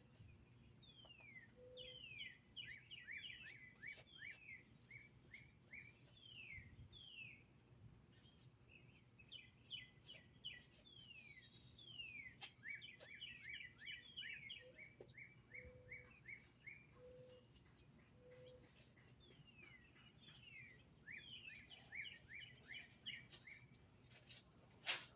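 A songbird singing phrases of rapid downward-slurred notes, each phrase lasting a few seconds and repeated several times, with faint scattered clicks in between.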